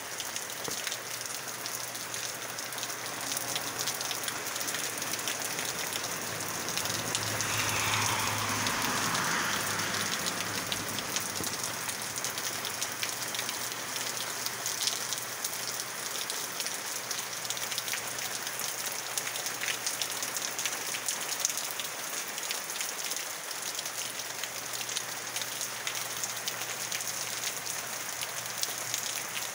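Steady rain falling, a continuous hiss with fine pattering of drops; a louder rushing swell rises and fades over a few seconds about a quarter of the way in.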